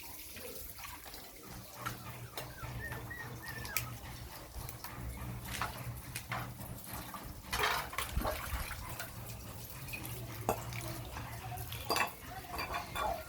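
Puppies eating from a dish: scattered clicks and knocks of the dish, with a faint short chirp about three seconds in.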